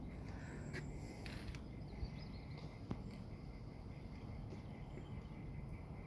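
Quiet outdoor ambience: a steady low rumble with a few faint high chirps, mostly in the first second and a half, and two small sharp clicks about two and three seconds in.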